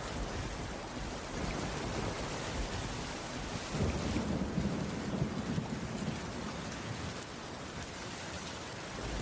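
Steady rain falling on a wooden cabin roof, an even hiss. About four seconds in, a low rumble of distant thunder swells for a couple of seconds and fades back into the rain.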